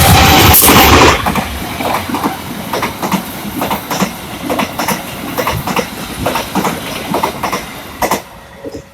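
Passenger train rolling past at speed, its wheels clicking over the rail joints in a repeated clickety-clack over a steady rumble; loudest in the first second, dying away about 8 seconds in.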